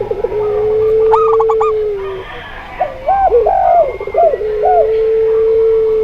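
Dove calls layered together from a zebra dove, a spotted dove and a puter pelung dove. Two long, steady, drawn-out coos of about two seconds each frame the sequence. A quick run of four higher notes sounds over the first coo, and a string of short rising-and-falling coos comes between the two long ones.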